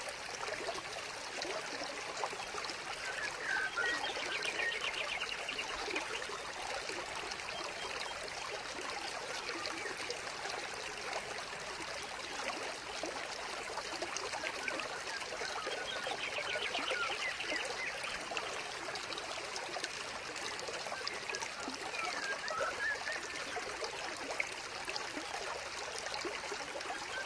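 Steady trickling and splashing of water from a small vivarium waterfall into the pool, with a few faint bursts of rapid, high chirping.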